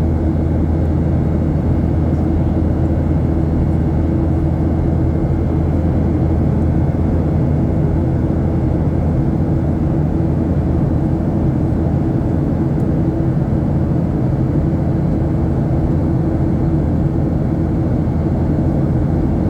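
Steady cabin drone of a Boeing 737-800 in flight: its CFM56-7B turbofan engines running with air rushing past the fuselage, an even low hum that does not change.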